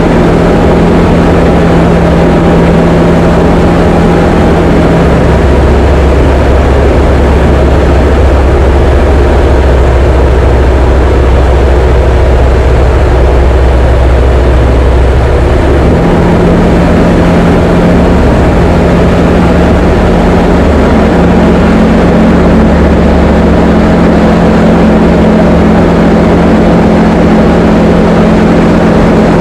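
Diamond DA20 light aircraft's piston engine and propeller running steadily, with a change in the engine's note about halfway through.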